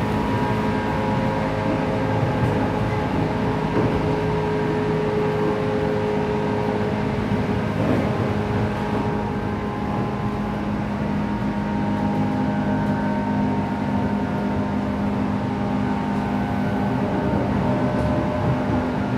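Running noise inside a JR West 117 series electric train at speed. The traction motors and gearing hum in several steady tones over the rumble of wheels on rail, with a light knock about eight seconds in.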